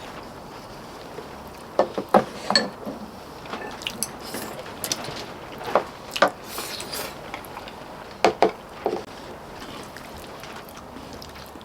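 Eating utensils clinking and knocking against bowls and dishes, in a few scattered clusters of short clicks.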